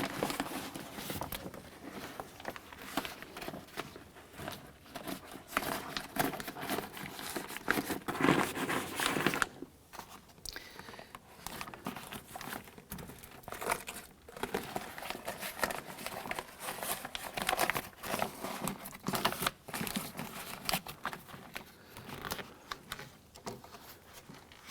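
Plastic door water shield crinkling and rustling as it is handled and fed over the door's cables and connectors, in irregular scrunches and crackles.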